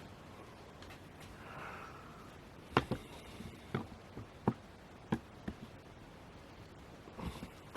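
About seven short, sharp clicks and taps, irregularly spaced, starting about three seconds in: handling noise against quiet room tone.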